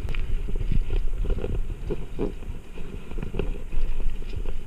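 A bicycle being ridden, with irregular rattling and clicking over the road and a constant wind rumble on the microphone.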